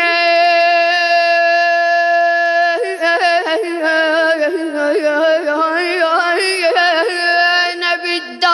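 A 12-year-old boy's solo unaccompanied voice chanting a Husseini lament as a radood: he holds one long note for about three seconds, then breaks into quick ornamented melismatic turns before the next word.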